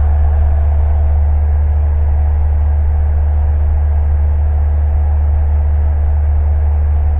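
Single-engine Cessna's piston engine and propeller droning steadily in cruise flight, a loud even low hum with no change in pitch.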